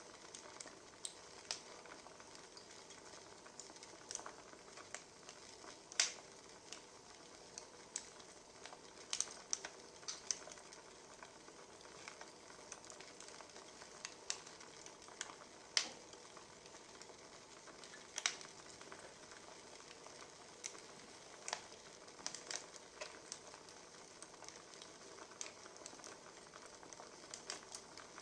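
Wood fire crackling: a soft steady hiss with irregular sharp pops and snaps, the loudest about 6 and 16 seconds in.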